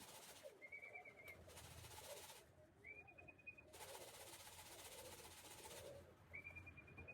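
Racing pigeons cooing faintly and continuously, with three short, high, pulsing peeps.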